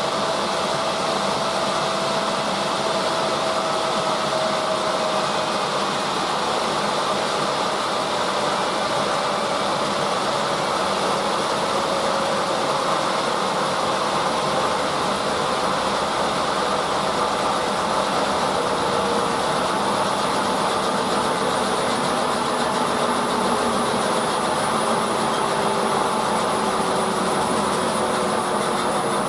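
Drum-type washing machine running: a steady whirring rush with a motor whine that slowly falls in pitch.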